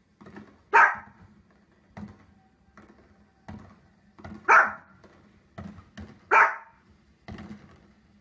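A dog barking: about ten short single barks, three of them much louder than the others.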